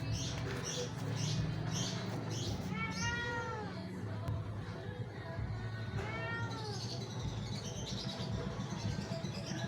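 A cat meows twice, each call rising and then falling in pitch, about three seconds apart, over a steady low hum.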